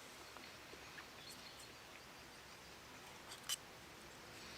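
Quiet outdoor woodland ambience. About three and a half seconds in there is one brief, sharp, high click.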